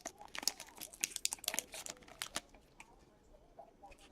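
Trading card pack wrappers crinkling and cards being shuffled by hand: a quick run of crackles and rustles that thins out to a few faint ticks after about two seconds.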